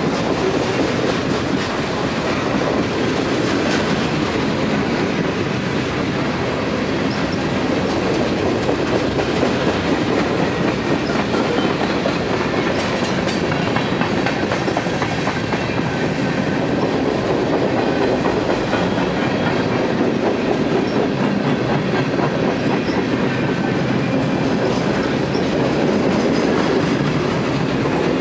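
Freight cars rolling past close by: loaded centerbeam lumber flatcars and covered hoppers, their steel wheels on the rails making a steady rumble with continual clickety-clack over the rail joints.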